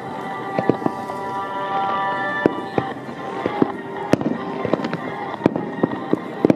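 Aerial fireworks bursting: a rapid, irregular run of sharp bangs and cracks, coming thicker toward the end.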